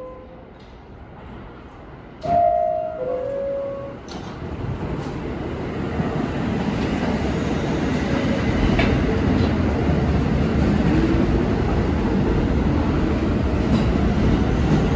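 A short two-note tone, stepping down in pitch, sounds about two seconds in. Then an R46 New York City subway train on the N line approaches the station, its rumble and wheel noise growing steadily louder.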